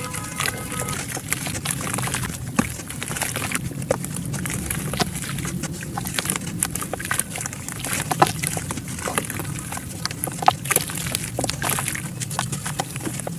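Soft dirt clumps crumbling, a dense run of small irregular crackles and crunches over a steady low hum.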